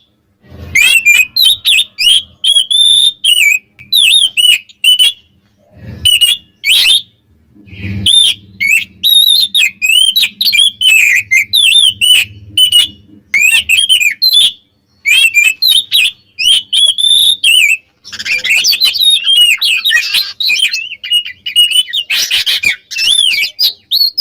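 Oriental magpie-robin (kacer) singing hard: a loud, fast, varied run of whistled and warbling notes in quick phrases with short breaks. The song grows denser and more overlapping for the last several seconds. It is full territorial song of the kind used as a lure to rile rival males.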